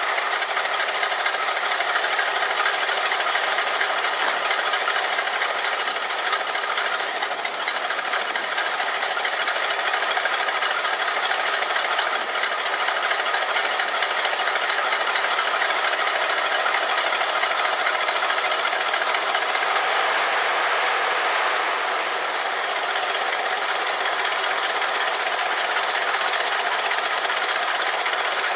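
A 1965 Ford Galaxie 500's engine running steadily on fuel poured into the carburetor, a continuous mechanical clatter with no break.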